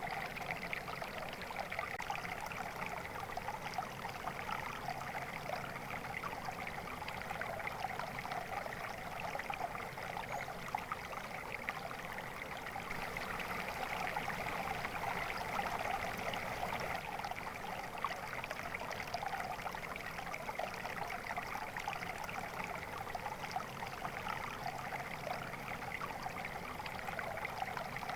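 A small stream or brook of flowing water, trickling and babbling steadily over stones.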